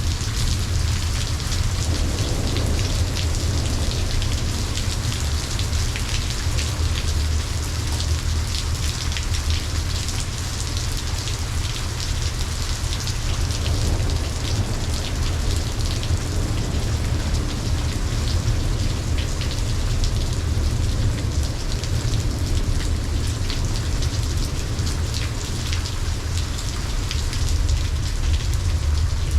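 Steady heavy rain from a thunderstorm, with close drops ticking sharply on a surface and a low rumble underneath.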